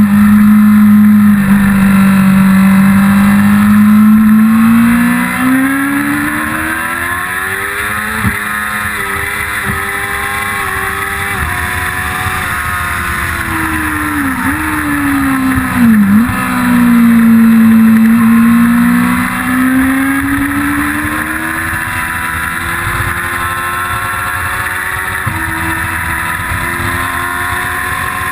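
1999 Yamaha R6's inline-four engine at high revs under hard acceleration, pitch climbing and stepping down at each upshift. About halfway through it drops sharply twice with quick throttle blips on downshifts, then pulls up through the revs again and holds fairly steady near the end.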